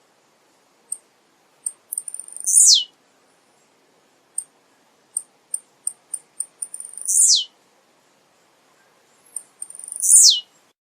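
Male blue-black grassquit (tiziu) singing: three short song notes, each a quick downward sweep from very high pitch, about two and a half, seven and ten seconds in. Each note is preceded by a run of short, high ticks.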